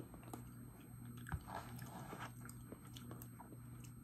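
Faint close-up chewing of a soft, mashed stuffing bowl, with a few small wet mouth clicks.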